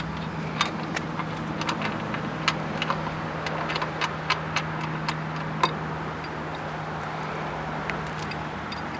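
Motorcycle lift jack being worked to raise a fallen motorcycle: a run of sharp metallic clicks at uneven intervals over about five seconds, fading out after that, over a steady low hum.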